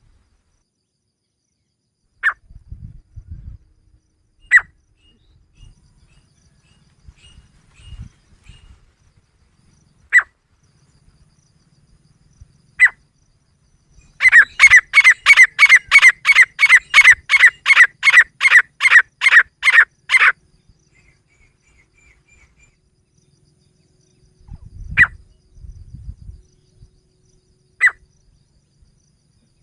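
Female grey francolin calling: a few sharp single notes spaced several seconds apart, and in the middle a fast run of about three to four loud, even, piercing notes a second lasting some six seconds. A few low thuds fall between the calls.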